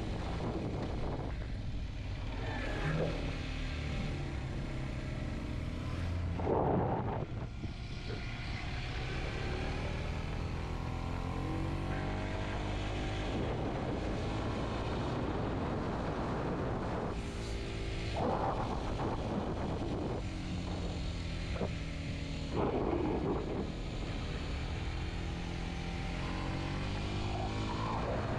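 Kawasaki Z125's 125 cc single-cylinder engine running under way, its revs rising and falling, with wind noise on the microphone.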